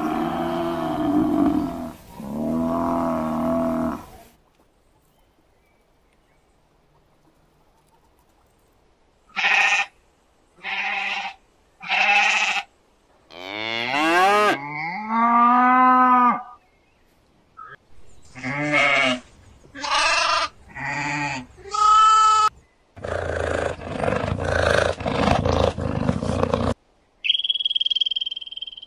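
A series of separate animal calls, one after another. Two long calls come at the start, then after a pause of about five seconds there is a run of short pitched calls, some sliding in pitch, then a rapid rough stretch, and a thin high whistle near the end.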